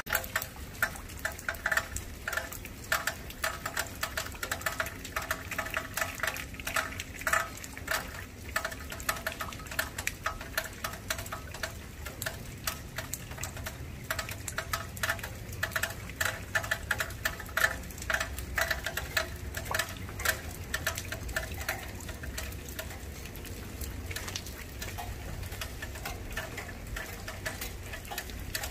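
Rain dripping and pattering in irregular taps of drops on a hard surface close to the microphone, growing sparser in the last third, over a low steady rumble from the storm.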